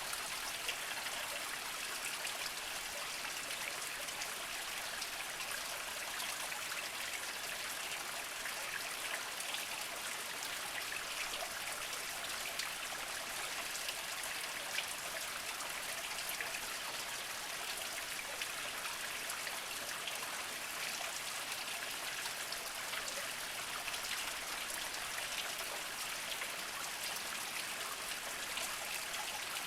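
Small spring trickling over mossy rocks, a steady light splashing and babbling with fine drips throughout.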